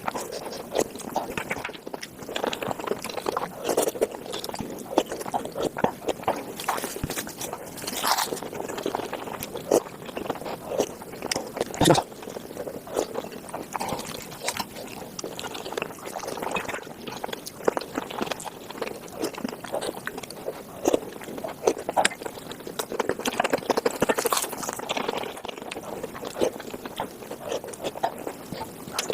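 A person eating Korean spicy tofu soup, sped up about five times: a fast, dense run of chewing, slurping and spoon-scraping clicks and smacks, with one sharper click about twelve seconds in.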